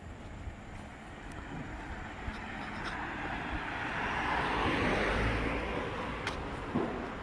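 A car driving past, its tyre and engine noise swelling to a peak midway and then fading away.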